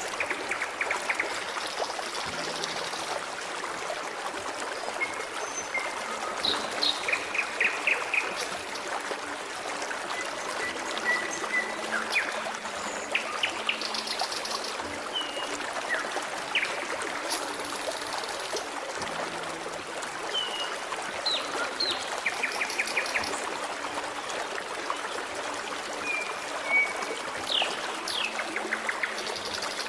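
Forest stream running and trickling steadily, with songbirds calling in short chirps, quick rapid trills and brief whistled notes scattered throughout.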